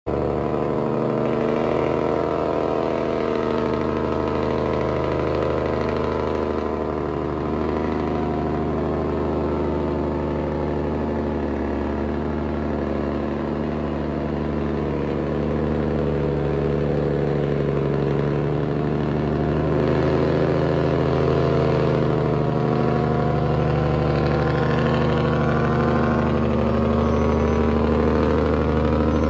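Truck engine running steadily at idle, its even hum holding level with small shifts in pitch and getting a little louder about two-thirds of the way through.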